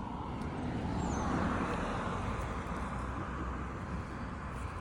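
Steady road traffic rumble, with a vehicle passing that swells up about a second in and fades away.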